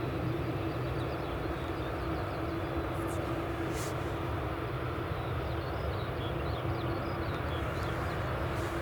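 Airbus A350 airliner's jet engines, a steady drone with a constant hum as the aircraft lands.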